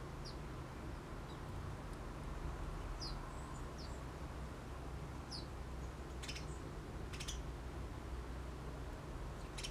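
Small birds chirping: several short, thin, falling high notes, then from about six seconds in three harsher, rapid chirps. A steady low rumble runs underneath.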